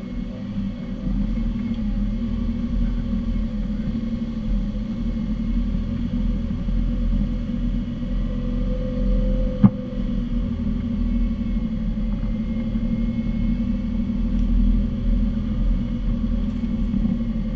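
Off-road 4x4's engine running steadily while driving along a rough dirt track, with a single sharp knock about ten seconds in.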